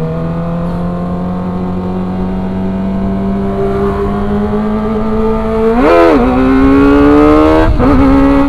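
Kawasaki ZX-25R's 249 cc inline-four engine pulling under throttle, its pitch climbing slowly and steadily. About six seconds in the revs flick sharply up and back down, then run higher and louder, with a brief dip near the end.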